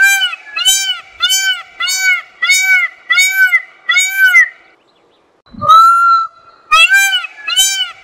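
Indian peafowl (peacock) calling loudly. A run of short, arching calls, about two a second, lasts nearly five seconds. After a brief pause comes one longer call about six seconds in, and another quick run of short calls follows.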